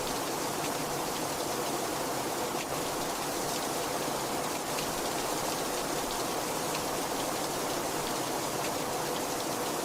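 Very heavy rain falling steadily: a dense, even hiss with faint scattered drop ticks.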